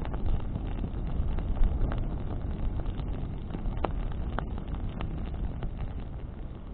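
Bonfire burning in the wind: a steady low rumble of wind and flame, with a few sharp crackles from burning branches scattered through it.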